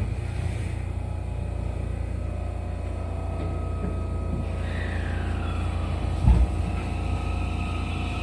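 JR West 207 series commuter train pulling away, heard from inside the car: a steady low hum, then from about four and a half seconds the VVVF inverter and traction motors start to sing, one tone falling and others slowly rising as it gathers speed. One thud about six seconds in.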